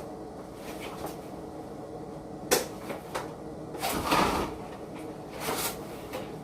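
A kitchen window being lifted open: a sharp knock about two and a half seconds in, then a longer scraping slide about a second later and a shorter one near the end.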